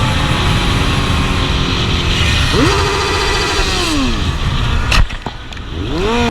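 Loud vehicle noise with an engine revving up, holding and winding down in the middle. A single sharp bang about five seconds in, after which the noise drops and an engine revs up again before the sound cuts off abruptly.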